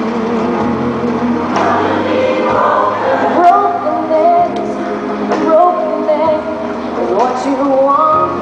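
A gospel choir singing with a band accompanying it.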